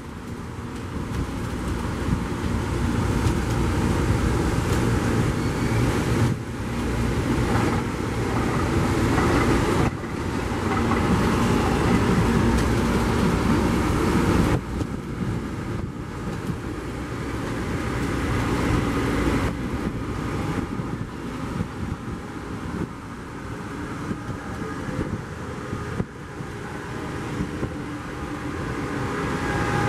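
Train running through a station: steady engine and rolling noise, with several sudden shifts in level and a set of steady tones near the end.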